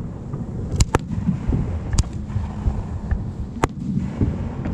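Fireworks bursting: a close pair of sharp bangs about a second in, another at two seconds and one near three and a half seconds, over a steady low rumble.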